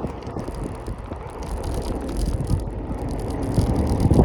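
Riding noise on a Segway E3 Pro picked up by a phone in a handlebar holder: wind rushing over the microphone with a steady low rumble, getting a little louder near the end.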